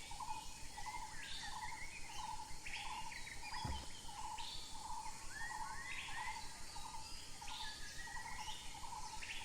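Birds calling in rainforest: a short note repeating about twice a second, with irregular higher chirps and rising whistles over it, and a single soft knock a little under four seconds in.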